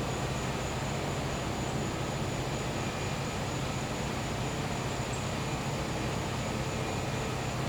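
Gas-powered generator running with a steady, even hum. A steady high insect trill of crickets or cicadas runs over it.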